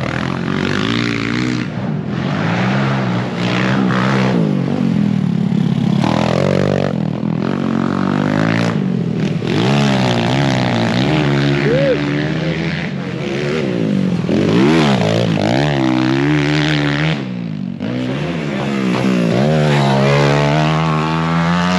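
Pit bike engines revving, their pitch climbing and falling again and again as the bikes accelerate and ease off.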